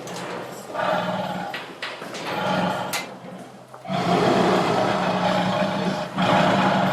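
Tiger growling and roaring in several rough bouts, the longest beginning about four seconds in, over a steady low hum.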